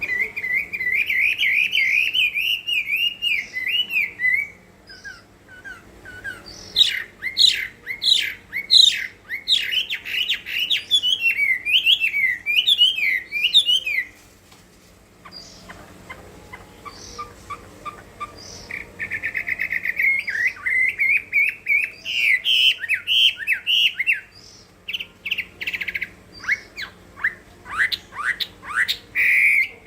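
Chinese hwamei giving its full fighting song: loud, varied whistled phrases of fast rising and falling notes, in long runs broken by a pause of several seconds about halfway through.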